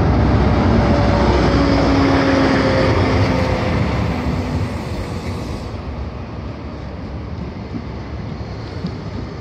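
First Great Western InterCity 125 High Speed Train passing on the platform road. The Class 43 diesel power car goes by first with its engine running and a slowly falling whine. The Mark 3 coaches follow, rolling by with wheel-on-rail noise that grows quieter from about halfway.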